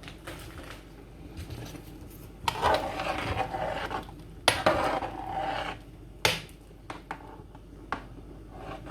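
A spoon stirring and scraping in a cooking pot: two stretches of scraping with a faint ring from the pot, then a sharp knock about six seconds in.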